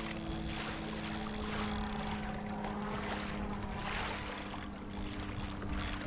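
Water washing and sloshing against a kayak's hull, swelling about once a second, over a steady low hum.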